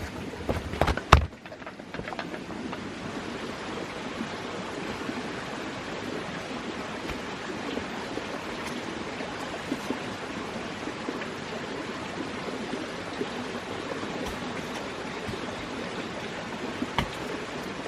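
Steady rushing of running water, like a forest stream, after a few sharp wooden knocks in the first second or so.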